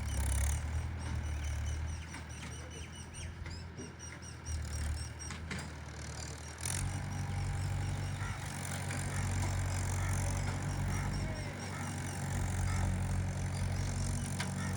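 Diesel engine of a JCB 3DX backhoe loader running steadily, growing louder and fuller about seven seconds in, with a couple of sharp knocks just before.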